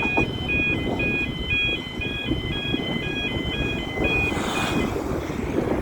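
Level crossing warning alarm sounding, a two-tone yodel alternating between two high pitches about four times a second, over a steady low rumble; the alarm cuts off about five seconds in.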